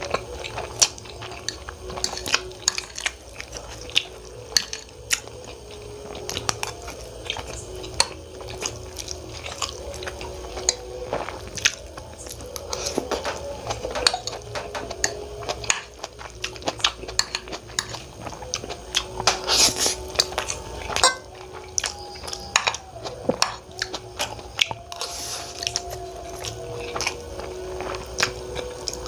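Close-miked eating of Maggi instant noodles and tomatoes: a utensil clicking and scraping against the dish between bouts of wet chewing, a steady run of short sharp clicks.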